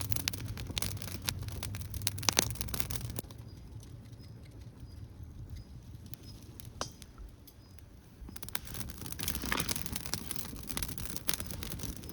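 Campfire crackling and popping, a run of sharp irregular cracks and clicks. It drops much quieter for about five seconds in the middle, then picks up again.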